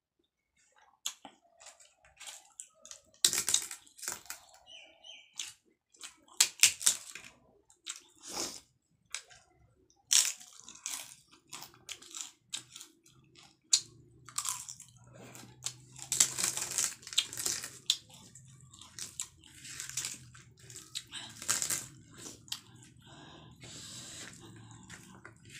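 Close-up chewing and crunching of crisp fried chickpeas and papad, in many short sharp crunches with wet mouth sounds between them. A low steady hum comes in about halfway through.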